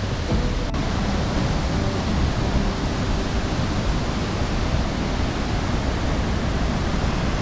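A tall waterfall in full monsoon flow: a steady rush of falling water.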